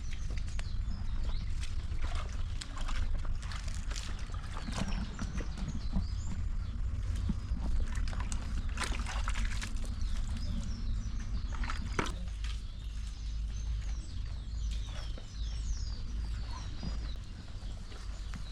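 Outdoor homestead ambience: birds chirping over scattered irregular clicks and knocks, with a steady low rumble underneath.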